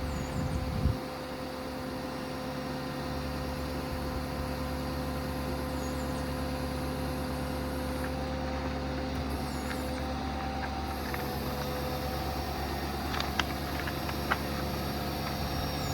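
Truck's 6.7 Power Stroke diesel running with a steady hydraulic whine as the Autocrane service crane's boom is run out. The pitch of the whine shifts about ten seconds in, and there are a couple of light clicks near the end.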